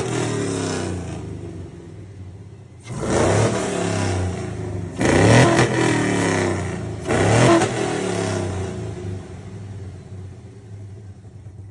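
Chevy truck's swapped-in 6.0-litre V8 revved three times, about two seconds apart, each rev rising and falling back to a steady idle.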